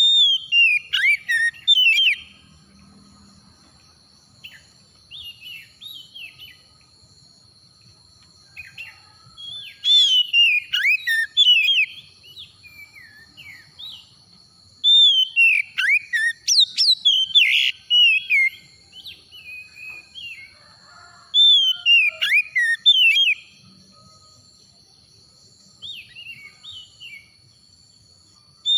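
Oriental magpie-robin (kacer) singing: loud bursts of quick, sliding whistled phrases, four times, with quieter phrases between them. A steady high thin tone runs underneath.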